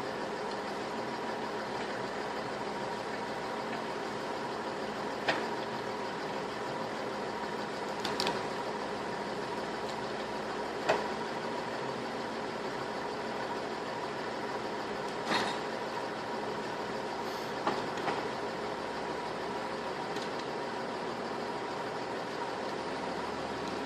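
A machine running steadily with a constant hum, and a handful of sharp knocks or clacks at irregular intervals.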